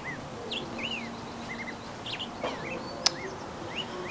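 Small birds chirping in short, scattered calls, with a single sharp click about three seconds in.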